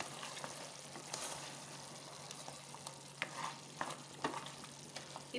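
Mutton with onions and tomatoes sizzling in an aluminium pressure cooker while being stirred with a wooden spatula, with a few short scrapes against the pot. The meat is sautéing in the juices it has released, with no water added.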